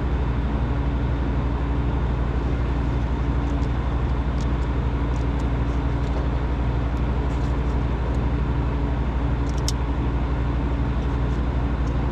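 Refrigeration vacuum pump running steadily with a low, fast-pulsing hum, evacuating the system after the compressor replacement. A few faint high ticks come through over it.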